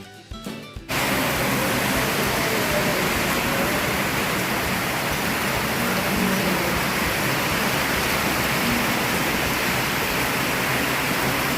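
The boat's rebuilt motor running steadily, heard as a loud, even rushing noise with no clear beat. Background music cuts off about a second in, just as it starts.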